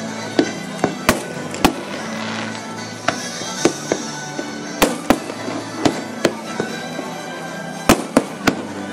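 Aerial fireworks bursting in a rapid, irregular series of sharp bangs, about fifteen in nine seconds, with music playing underneath.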